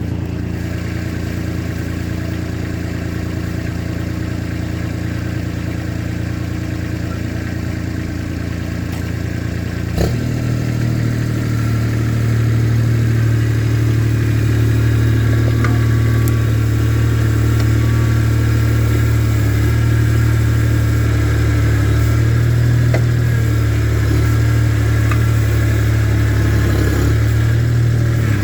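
Tractor engine running steadily. There is a knock about ten seconds in, and from a couple of seconds later the engine runs louder.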